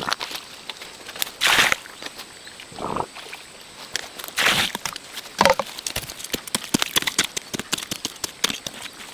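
Irregular crunching, clicking and rustling, as of movement or handling on dry ground. Louder swishes come about a second and a half in and again about four and a half seconds in.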